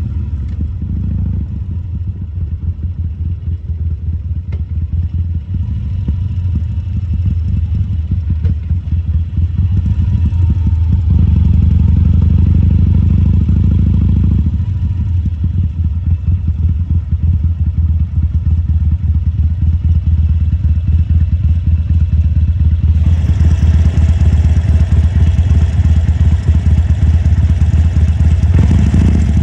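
A 2014 Harley-Davidson Sportster 1200 Custom's air-cooled V-twin runs with a steady, deep, pulsing exhaust note. It gets a little louder about a third of the way in. A steady hiss joins it for the last few seconds.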